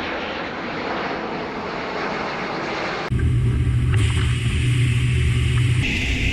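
Military transport aircraft engines running, a steady rushing noise that changes abruptly about three seconds in to a louder, deeper hum, and changes again near the end.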